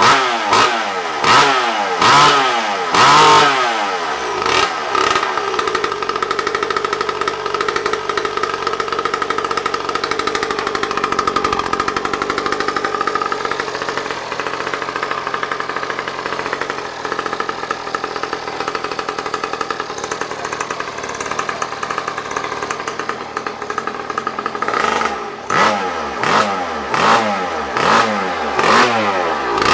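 Small 50cc mini motorbike engine revved in quick repeated throttle blips, then held running at steady high revs for about twenty seconds, then blipped again near the end.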